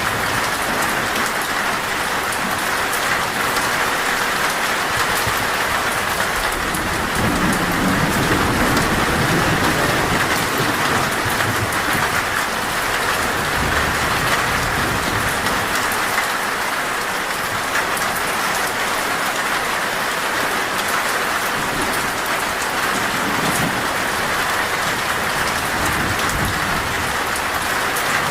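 Heavy rain on a metal roof, a steady dense patter, with a low roll of thunder swelling from about seven to eleven seconds in.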